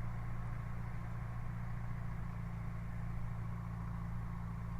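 Single-engine light aircraft's piston engine running steadily at low power on the ground, with a drone of low even tones, while it runs rough and down on power.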